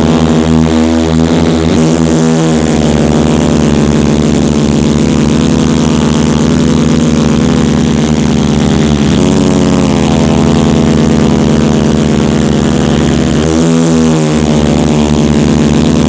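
Monster truck engines running loud and steady, with brief dips and recoveries in pitch about nine and thirteen seconds in.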